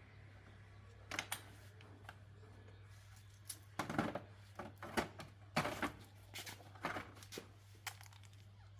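Irregular sharp clicks and clacks of hand tools and metal parts being handled during motorcycle repair work, thickest in the middle, over a faint steady electrical hum.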